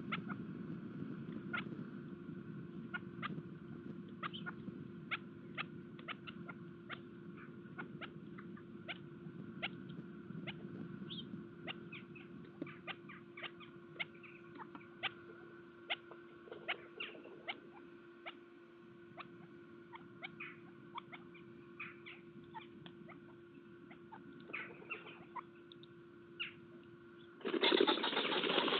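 Birds pecking seed at a feeder: irregular sharp taps, a few a second, over a steady low hum. A loud rushing noise comes in about a second before the end.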